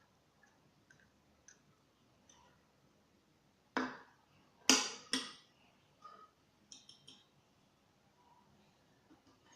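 Small hard objects being handled: scattered light clicks, with three louder sharp knocks about four to five seconds in.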